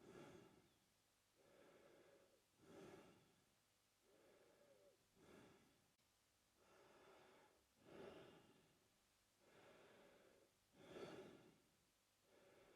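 A man breathing slowly and steadily through his mouth, about five full breaths in and out. Each breath is a softer, drawn-out airy sound followed by a louder, shorter one, at an even pace.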